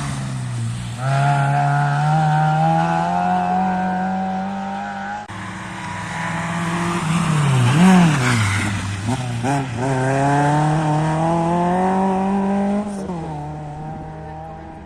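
Rally car's engine accelerating hard, its pitch climbing steadily. About five seconds in the sound breaks off, then the revs swing sharply up and down before climbing again and dropping away near the end.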